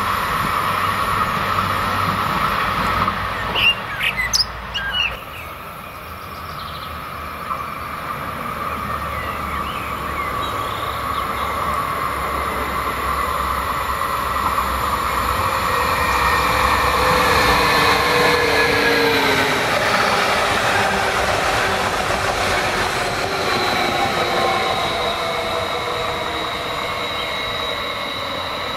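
A double-deck push-pull passenger train runs past on the main line, with a few sharp high squeaks and clicks about four seconds in. Then a Stadler FLIRT electric multiple unit approaches and slows, its traction drive whining in several tones that fall in pitch, with a steady high squeal from past the middle on.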